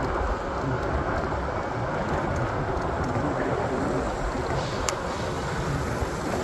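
Steady low rumble and rushing noise of a moving vehicle, with a few faint clicks.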